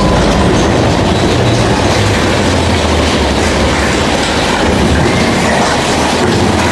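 Big Thunder Mountain Railroad mine-train roller coaster cars rumbling and clattering along the track in a steady, loud run.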